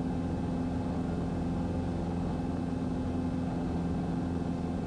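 Cessna 150's four-cylinder piston engine and propeller droning steadily at climb power, heard from inside the cabin.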